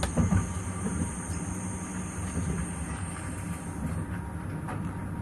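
Passenger train running along the track, heard from inside the carriage: a steady low rumble of wheels on rails, with a few louder knocks in the first half-second.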